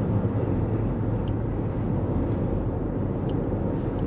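Steady road and tyre noise of a 2024 Toyota Corolla Cross cruising at highway speed.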